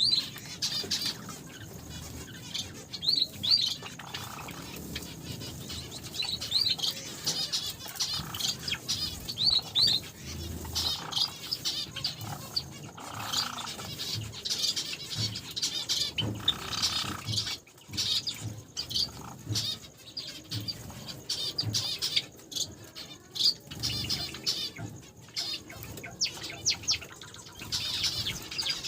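A flock of small caged finches chirping almost without pause in short, high, rapid calls, with wing flutters and scattered light clicks and knocks.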